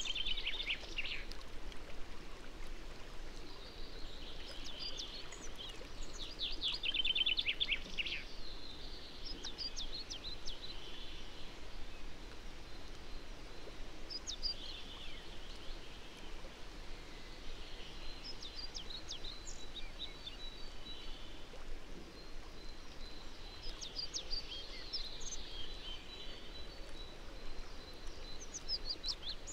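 Songbirds singing outdoors: several fast trills, the loudest right at the start and again about seven seconds in, with scattered chirps and short phrases throughout, over a steady background hiss.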